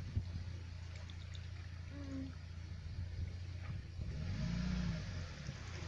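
Off-road 4x4 engine labouring through mud, a steady low drone that revs up and back down about four seconds in, with a rising hiss near the end.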